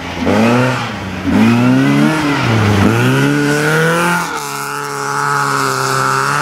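BMW E30 rally car engine revving hard as the car slides past on a snowy stage. Its pitch climbs and drops back three times as the driver shifts and lifts, then holds steady at high revs near the end.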